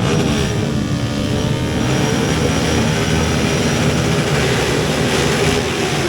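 Several underbone motorcycle engines racing together, a dense steady engine drone with revving pitches over one another.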